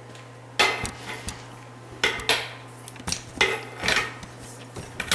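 Irregular metallic clinks and taps of hand tools on metal, about nine over a few seconds, as a bolt on a battery box bracket is tightened.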